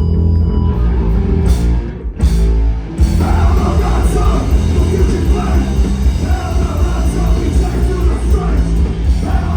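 Live heavy rock band playing loud, with heavy bass and distorted guitars; after a brief drop around two seconds the full band comes back in at about three seconds, with singing on top.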